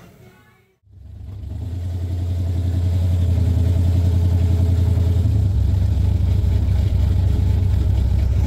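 A motor vehicle's engine running steadily, a low, even drone that fades in after a brief silence about a second in.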